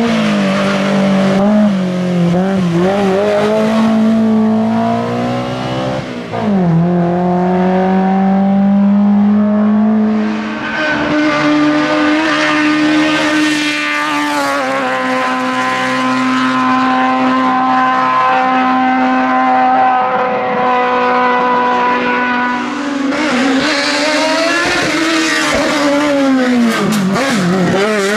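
Historic racing car engine running at high revs under hard acceleration. The pitch drops and climbs again about six and eleven seconds in, as it changes gear, then holds high and steady. Near the end there is a falling-then-rising sweep.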